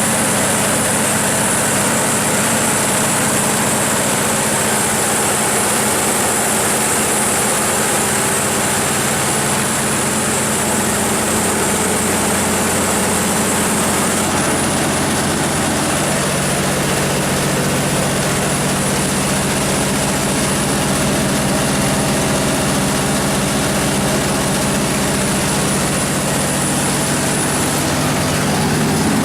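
Cummins NTA-855-G2 turbocharged inline-six diesel engine of a 350 kW generator set running steadily, its tone shifting slightly about halfway through.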